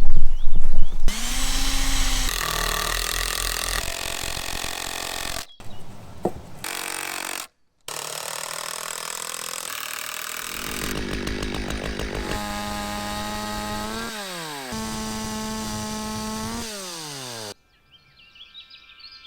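Chainsaw cutting wood in a run of short clips that change abruptly. The engine holds at high speed and twice drops in pitch as the throttle comes off. Near the end it goes quiet and only faint steady tones remain.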